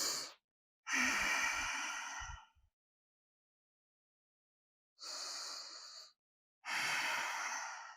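A woman breathing audibly close to the microphone: slow, deep yoga breaths, heard as four long breath sounds with silence between them, making two full breaths.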